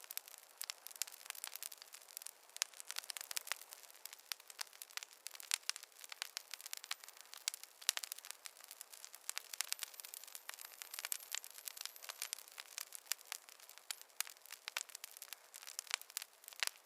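Wood fire burning, crackling with many irregular sharp pops and snaps over a soft hiss.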